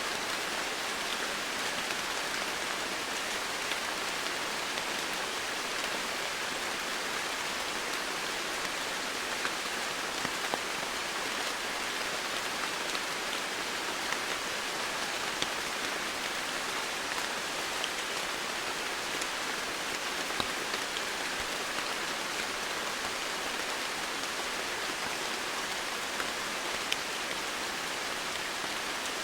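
Steady rainfall, an even hiss of rain on leaves and ground with scattered individual drops ticking through it.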